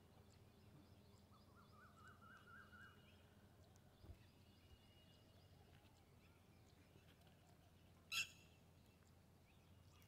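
Bird calls over a near-silent background: a quick run of repeated chirps lasting about a second and a half, starting a second or so in, then a single short, sharp call about eight seconds in, the loudest sound.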